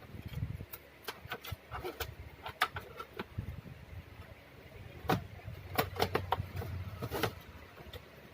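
A run of sharp clicks and knocks from handling the repaired monitor's hardware as it is set up for testing. The knocks are loudest about five to seven seconds in, over a low hum.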